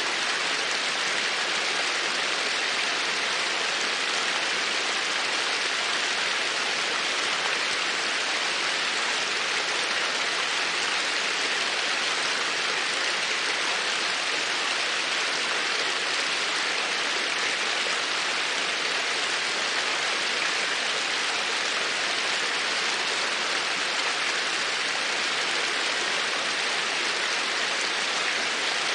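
Steady, even rush of water, an unbroken sleep-sound recording with no drips, chimes or changes standing out.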